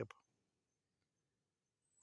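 Near silence: a pause between sentences, with only faint room tone.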